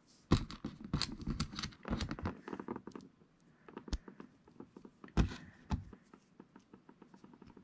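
Small plastic Lego pieces clicking and rattling as they are handled and pressed into place: a quick run of sharp clicks over the first three seconds, then a few single clicks.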